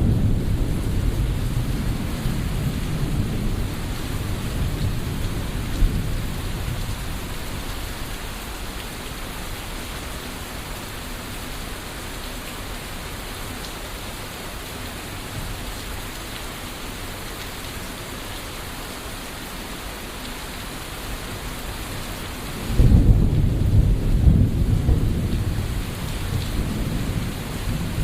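Thunderstorm: steady rain falling throughout, with rolling thunder dying away over the first several seconds, then a sudden loud thunderclap about five seconds before the end that rumbles on.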